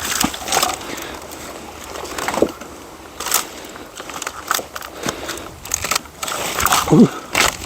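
Dry firewood being gathered and handled: pieces of wood knocking together and twigs crunching and cracking in a string of irregular knocks.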